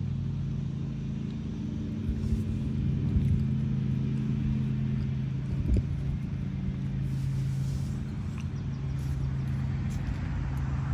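A steady low hum from a running engine, with a sharp knock a little under six seconds in and a few faint clicks later on.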